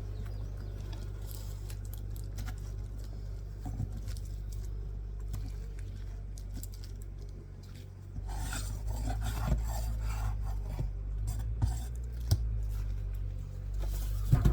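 Light clinks, rubs and scrapes of small hard objects being handled, more frequent in the second half, over a steady low hum that grows louder about halfway through.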